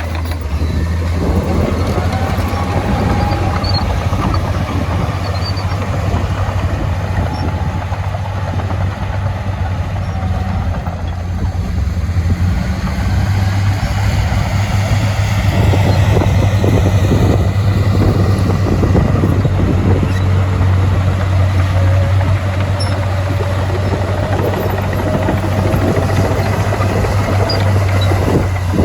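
Heavy diesel earthmoving machinery running steadily under load, a deep engine drone with a faint whine that slowly rises and falls, and some rattling.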